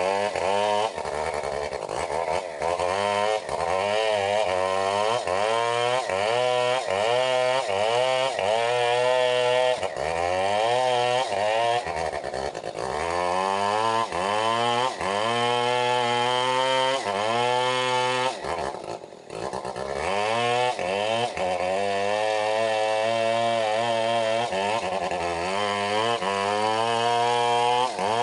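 Stihl 070 two-stroke chainsaw running hard, its engine pitch rising and falling back again and again, about once a second. It drops away briefly about nineteen seconds in.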